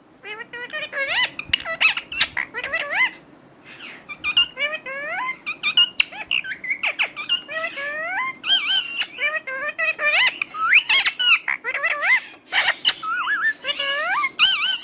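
Pet parrot chattering in a rapid run of squeaky chirps and whistles that sweep up and down in pitch, with a brief pause about three seconds in.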